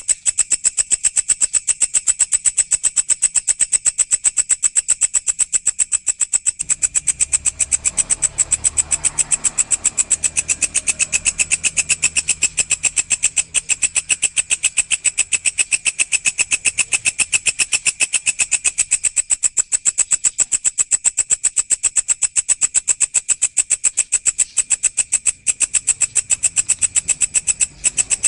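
Walang, a grasshopper-type insect, singing a continuous high, shrill buzz made of rapid, evenly spaced pulses that does not let up.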